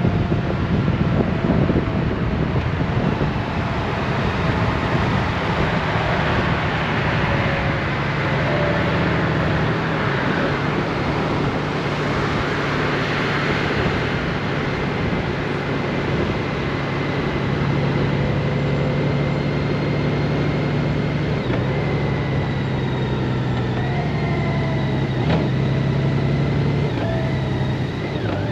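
Honda Gold Wing motorcycle riding at road speed: a steady low engine hum under wind rushing over the microphone, the wind swelling twice mid-way. The engine note shifts up and down a few times near the end.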